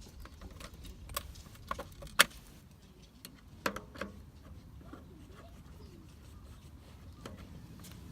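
Several short, sharp clicks and knocks of hard objects, the loudest a little over two seconds in, over a low steady background rumble.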